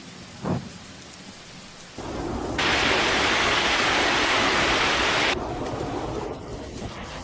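Loud, even hiss of a heavy downpour. It comes in abruptly over a low rumble about two and a half seconds in and cuts off suddenly about three seconds later. A single short thump is heard about half a second in.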